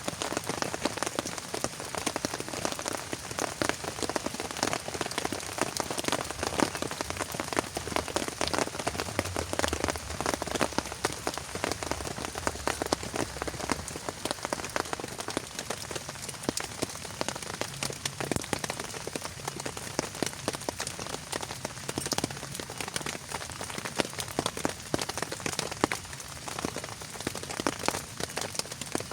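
Heavy rain falling steadily, a dense mass of drops striking a surface without letting up.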